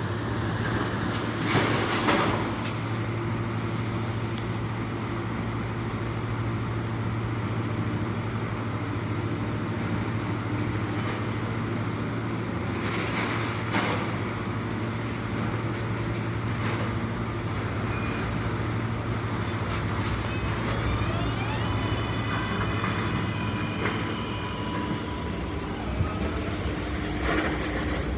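New York City Subway L train at the station: a steady low electrical hum with a couple of brief hissing bursts. From about twenty seconds in, a faint electronic whine steps up in pitch.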